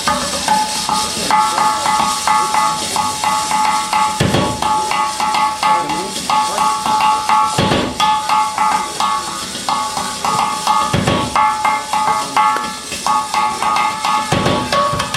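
Live percussion-led music: a fast repeating figure of short, high pitched notes, with a heavy hit that rings on about every three and a half seconds.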